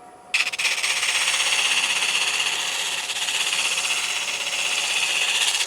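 Hickory spatula pressed against a small sander spinning on a wood lathe: a steady, gritty hiss. It starts suddenly just after the beginning and cuts off suddenly at the end.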